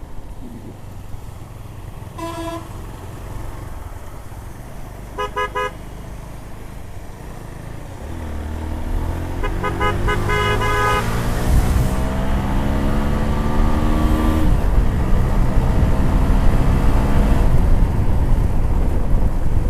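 Motorcycle engine accelerating hard, its pitch rising steadily, dropping at a gear change and climbing again. A multi-tone horn toots briefly twice and then sounds for over a second.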